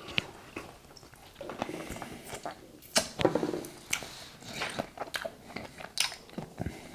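Mouth sounds of a person biting and chewing buttery lobster meat: irregular smacks and clicks, loudest about three seconds in.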